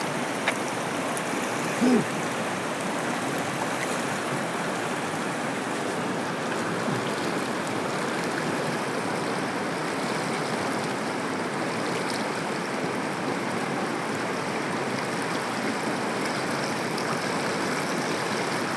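Stream water running steadily, a continuous even rush.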